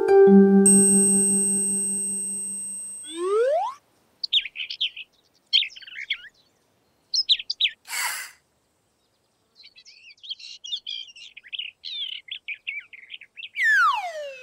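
A bell-like musical chord fading away, then a quick rising whistle glide, followed by a songbird chirping and warbling in short, high phrases. There is a brief rushing noise about halfway through and a falling whistle glide near the end.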